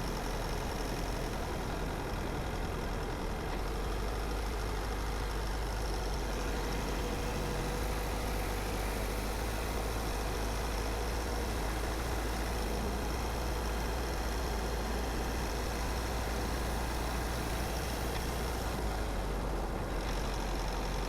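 Car driving steadily along a road: a constant low rumble of engine and road noise with an even hiss of tyres.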